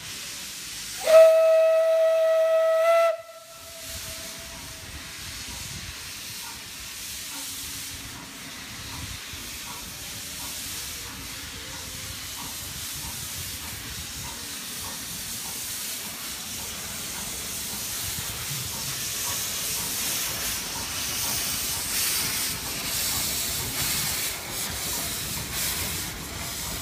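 A steam locomotive's whistle gives one blast of about two seconds, then steam hisses steadily and the train noise grows louder toward the end. The locomotive is plausibly Isle of Man Railway No.12 Hutchinson, a Beyer Peacock narrow-gauge tank engine.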